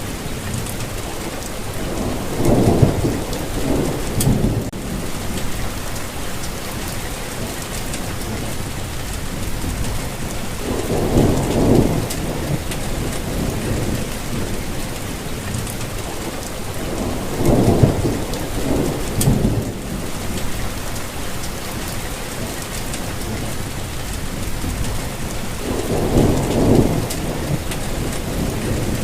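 Steady rainfall, with four low rolls of thunder, each lasting a second or two: near the start, about a third of the way in, past the middle and near the end.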